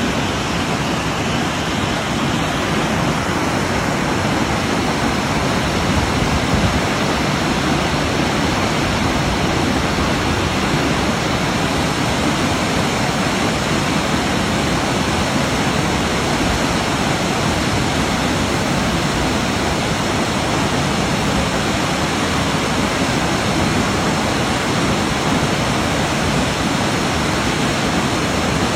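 Waterfall: water falling and crashing in a steady, loud roar of rushing noise.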